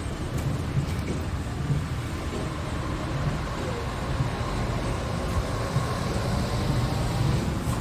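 Scania R tractor unit's diesel engine running steadily with a low, uneven rumble.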